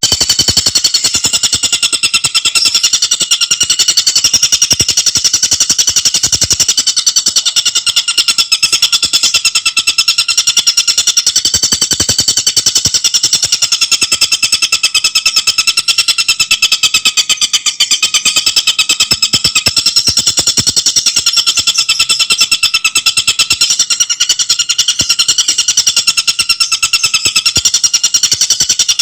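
Tengkek buto bird singing: an unbroken, very fast stream of high, rapidly repeated notes, loud and close.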